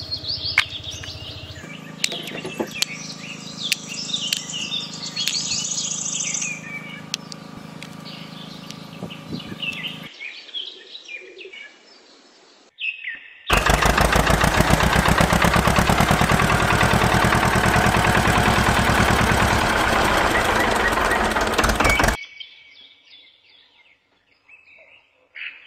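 Birds chirping over a steady low hum. About halfway through, a loud, steady machine noise with a fast even pulse, like a small engine running, starts suddenly and cuts off abruptly after about eight seconds. Faint chirps return near the end.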